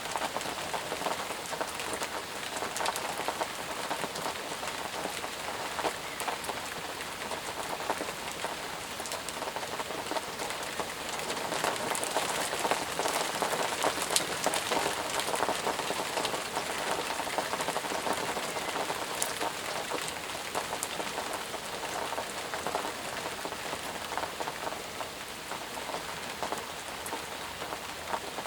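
Steady heavy rain falling, a dense hiss of many drops with fine drop ticks, swelling slightly in intensity midway.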